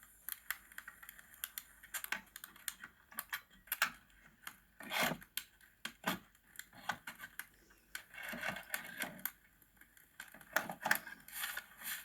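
Dry wood being worked by hand while shaving wood curls for fire-starting: irregular sharp clicks and taps of sticks, with a few longer scraping strokes, the longest near the middle and again near the end.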